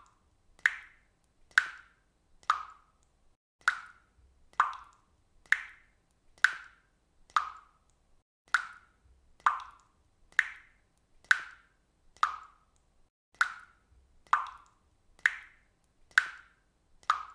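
Water dripping from a faucet in a steady rhythm, about one drop a second, each drop a short, sharp drip with a brief fading tail.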